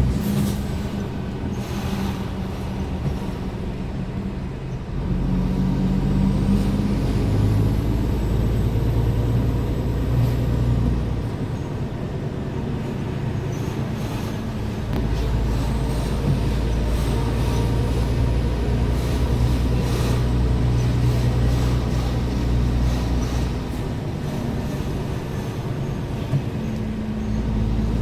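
Scania R410 truck's 13-litre straight-six diesel running under way, its note and load changing in steps several times as the automated gearbox shifts and the truck speeds up and slows.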